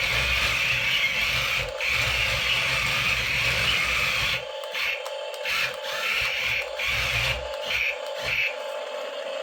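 Toy RC tank's small electric drive motors and plastic gearboxes whirring as it drives, running steadily for about four seconds, then in short stop-start bursts that end near the end.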